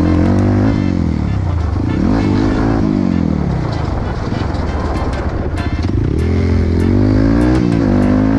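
Trail motorcycle engine being ridden, its pitch rising and falling repeatedly as the throttle is opened and closed, easing off in the middle before climbing again. A few sharp ticks come through in the second half.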